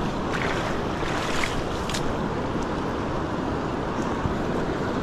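Steady rush of river water flowing through a spillway, with a few faint ticks in the first two seconds.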